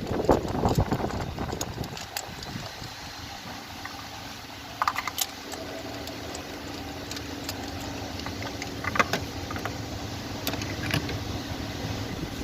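Scattered light metallic clicks and rattles of hand tools being handled during a spark plug change, with wind gusting on the microphone in the first couple of seconds.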